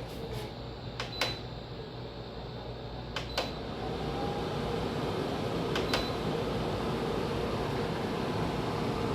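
Air cooler's fan blowing steadily, with three short clicks and beeps from its control-panel buttons about one, three and six seconds in. After the second press the airflow gets louder as the fan picks up speed.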